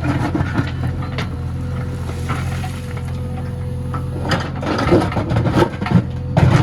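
JCB 3DX backhoe loader's diesel engine running steadily, with irregular knocks and clanks from the digging work, busiest near the end.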